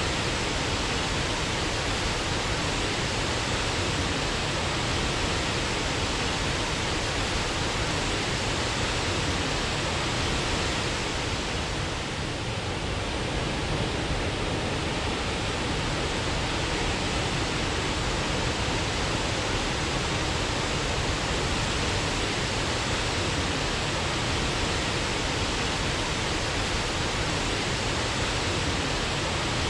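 Waterfall, water pouring with a steady, even rush of noise.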